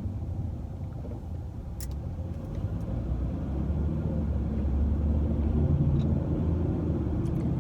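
Steady low rumble of a car being driven, heard from inside the cabin, with a couple of faint clicks.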